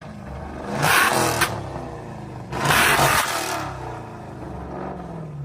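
Jeep Grand Cherokee Trackhawk's supercharged 6.2-litre V8 revved hard twice, each blip lasting about a second, dropping back to a rumbling idle between and after.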